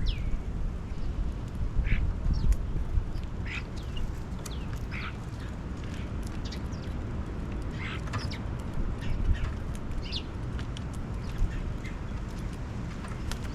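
Birds giving short, harsh, downward-slurred calls, scattered every second or so, over a steady low rumble.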